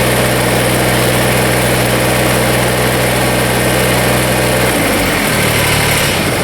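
Kubota BX24 compact tractor's three-cylinder diesel engine running steadily at low speed, its note changing a little before five seconds in.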